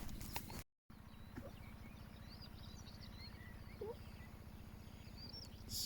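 Faint birds chirping over a low, steady outdoor background, with a few footstep-like clicks before a brief cut under a second in.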